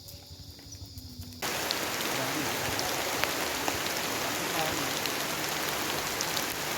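Heavy rain falling steadily. It comes in suddenly about a second in, after a quieter start.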